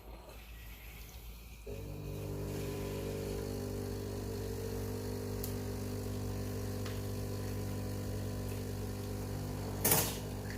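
Breville Barista Pro espresso machine's vibration pump humming steadily as it runs a warm-up flush through the group head. It starts about two seconds in, and there is one brief louder noise near the end.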